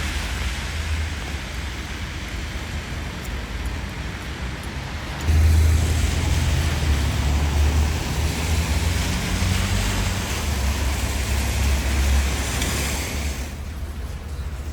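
Wind rumbling on the microphone over a steady hiss of rain, jumping suddenly louder about five seconds in.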